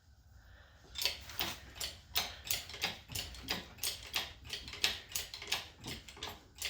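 Engine hoist's lifting mechanism clicking in a steady rhythm, about three clicks a second, as the Prius engine is raised out of the bay. The clicks start about a second in.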